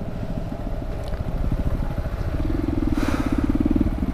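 Small motorcycle engine running at low speed as the bike rolls to a stop, with rapid low firing pulses. A steadier, louder engine note comes in a little past halfway.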